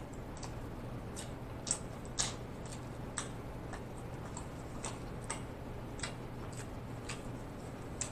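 Close-miked chewing of a mouthful of Italian beef sandwich: irregular wet mouth clicks, two or three a second, over a low steady hum.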